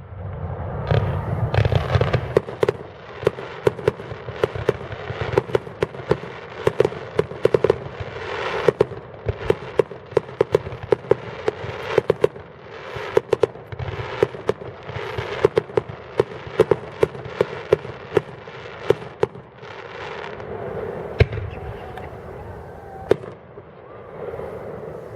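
Fireworks going off: a rapid, dense run of sharp bangs and pops over a continuous crackling haze, with a deeper boom about two seconds in, thinning to scattered reports near the end.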